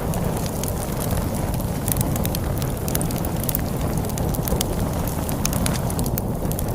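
Wood fire crackling with scattered sharp pops over a steady low rumble of storm wind.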